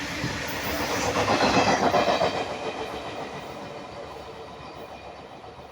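Indian Railways freight train passing at speed, its wheels clattering rapidly over the rail joints. It is loudest about one to two seconds in, then fades steadily as it moves away.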